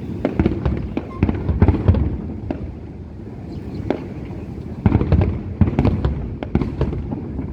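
Fireworks display: rapid runs of sharp bangs and crackles over low booming, coming in two dense flurries, the second starting about five seconds in.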